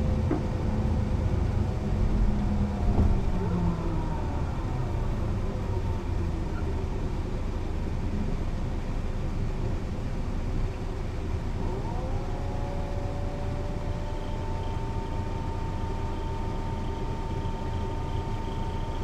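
Mercedes-Benz O 405 NÜ low-floor intercity bus driving, with a steady diesel rumble and drivetrain whine. The whine falls in pitch in the first few seconds as the bus slows, then about twelve seconds in it rises and holds at a steady pitch as the bus picks up speed and cruises.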